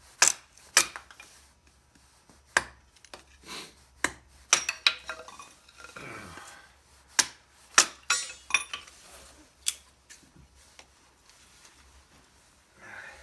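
Irregular sharp clicks, knocks and a few metallic clinks from tending a small kindling fire: sticks and fire gear being handled and set down.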